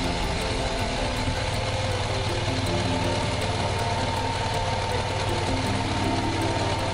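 Ducati Monster 900's air-cooled L-twin engine running steadily as the motorcycle cruises, under a steady hiss of wind and road noise.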